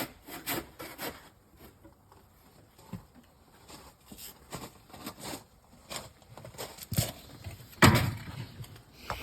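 Scattered knocks and clunks of hard objects being handled, with one heavier thump about eight seconds in.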